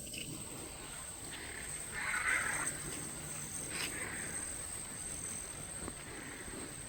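Steady high-pitched insect drone, with a few short, soft animal or rustling sounds; the strongest comes about two seconds in, and there is a click near four seconds.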